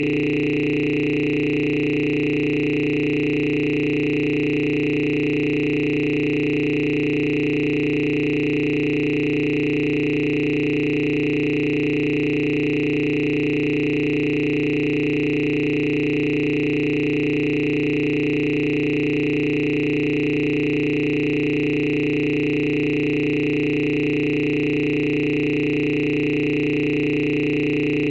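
A steady electronic drone of several held tones, low, middle and high together, with no rhythm and no change in pitch or loudness.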